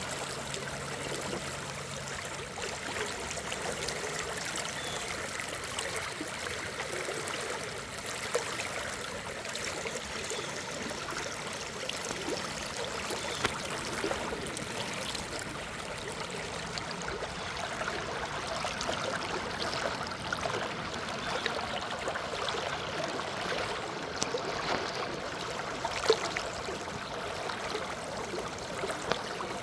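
Water flowing steadily in a continuous rush, with a few brief sharp clicks, the loudest near the end.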